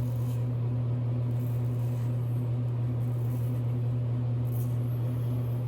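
Steady low electrical hum throughout, with a few faint scrapes of a double-edge safety razor cutting through lathered stubble.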